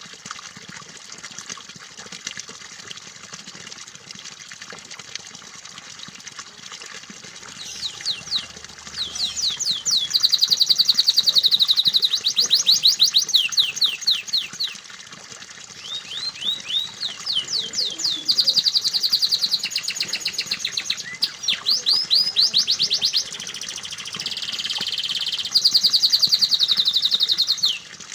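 Canary song: loud rapid trills and fast runs of repeated chirps in phrases, starting about eight seconds in, over a steady background of running water.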